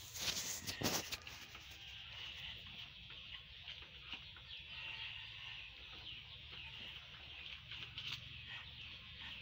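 Birds chirping and calling in many short, quick notes, with a few loud brief rustling bursts in the first second.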